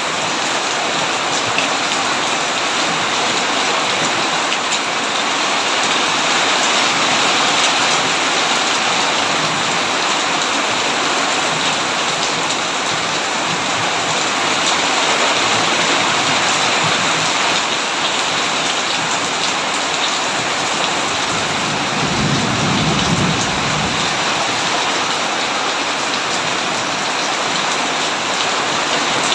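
Heavy rain pouring steadily, with a low rumble of thunder lasting about two seconds roughly three quarters of the way through.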